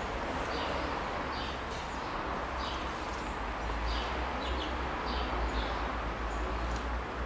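Small birds chirping in short calls that fall in pitch, one or two a second, over a steady outdoor background with a low rumble.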